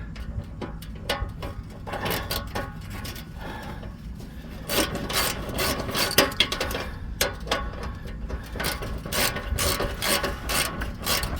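Wrench turning the nuts on an exhaust band clamp: repeated metal clicking and scraping, coming faster from about halfway through.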